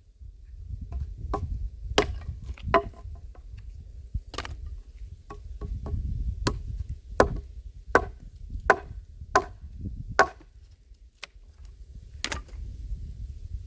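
Handmade axe chopping wood: about a dozen sharp strikes, coming in a steady run of roughly one every 0.7 seconds in the middle, with a pause before a last hard strike near the end.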